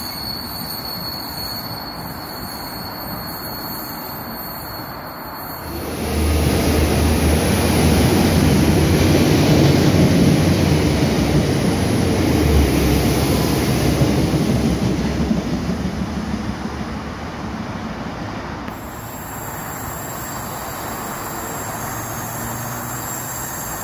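A diesel multiple unit passing through the station: a high steady whine as it approaches, then about six seconds in a loud rush of low engine drone and wheel-on-rail noise. The noise fades away over the last few seconds.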